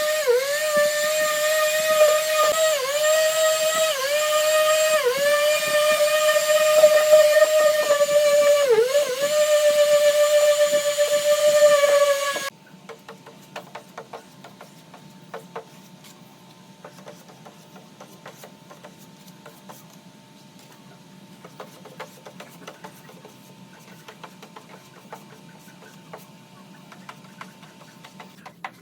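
Electric power tool whining at a steady high pitch, its pitch dipping briefly every couple of seconds as it is pressed into the work, then cutting off suddenly about halfway through. After it, faint scattered clicks and taps.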